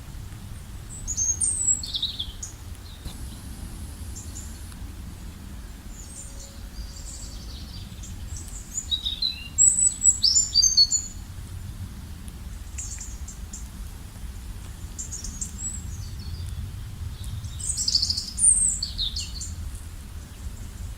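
Songbirds chirping and singing in short, high, quick phrases, loudest in bursts about a second in, around ten seconds in and near the end, over a steady low rumble.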